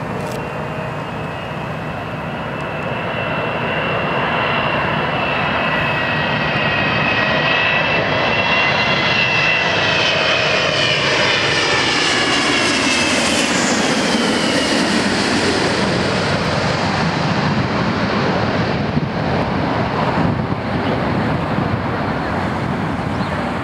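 Boeing 777-200ER jet airliner passing low on its landing approach: a steady jet roar that swells as it comes in. High engine whine slides down in pitch as it goes by, leaving a lower rumbling roar.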